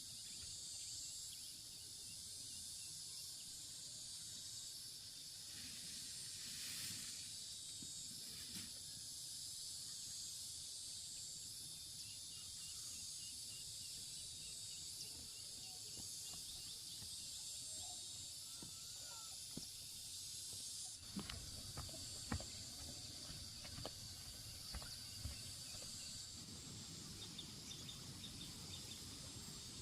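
Faint, steady high-pitched chorus of insects, with a few light knocks and clicks in the second half.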